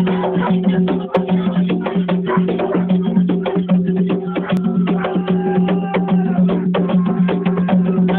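Ceremonial drum music: hand drums and a sharp, wood-block-like percussion instrument played together in a fast, dense, driving rhythm over a steady low hum.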